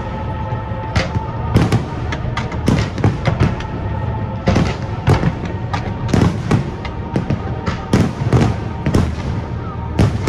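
Fireworks display: aerial shells and comets going off in a rapid, irregular series of bangs and crackles, with music playing underneath.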